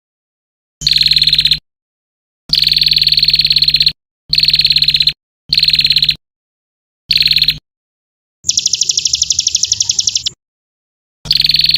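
Recorded buzzy, rapidly pulsing bird trills used as fill-in song for training white-rumped shamas. They come in seven short bursts with dead-silent cuts between them. The burst around the middle is higher-pitched and longer than the rest.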